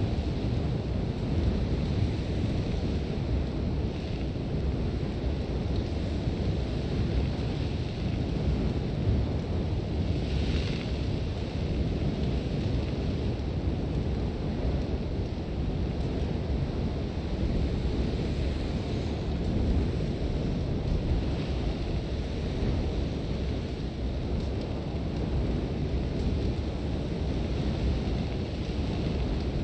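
Sandstorm wind blowing hard and steadily, a deep rumble of gusts with a thin hiss of blowing sand over it; a brighter hissing gust swells briefly about ten seconds in.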